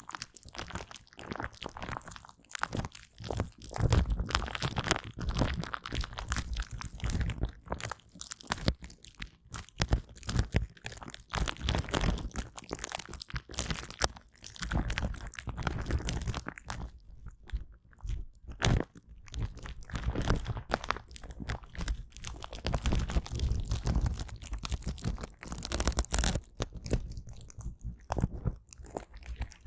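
Aloe vera gel being wiped, recorded close up: an irregular, continuous run of sticky crackling and rubbing sounds with a few short pauses.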